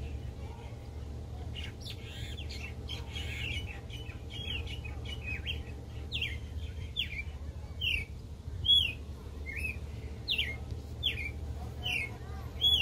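A bird calling over and over with short, sharp chirps that slide down in pitch, one or two a second, louder in the second half.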